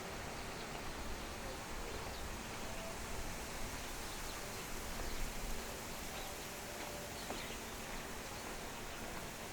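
Outdoor ambience: faint, scattered short bird chirps over a steady background hiss with some low rumble.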